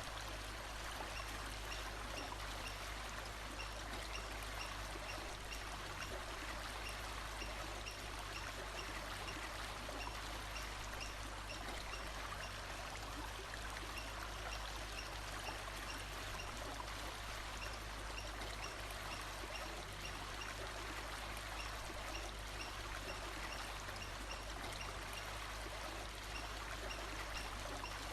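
Steady rush of flowing water, like a stream, with faint high chirps repeating at an even pace behind it.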